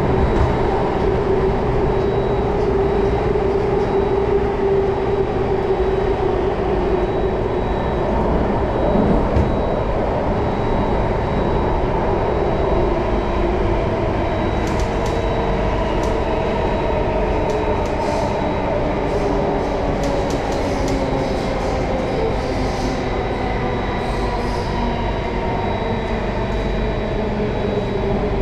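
Singapore MRT Circle Line train running between stations: a steady rumble of wheels on rail with a faint electric motor hum that drifts slightly in pitch. From about halfway through, a scatter of short sharp clicks and rattles joins in.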